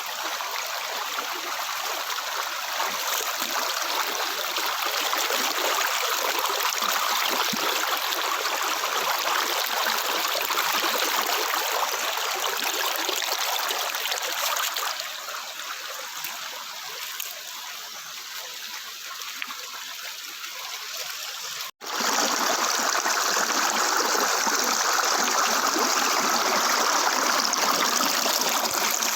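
A hill river flowing, a steady rush of running water. It softens somewhat after the middle, cuts out for an instant about three quarters through, then returns louder.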